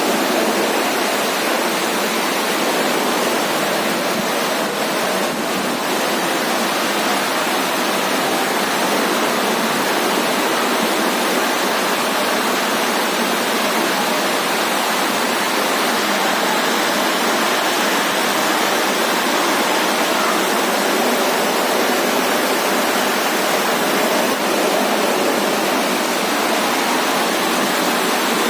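Floodwater rushing and pouring in a steady, loud rush after heavy rain.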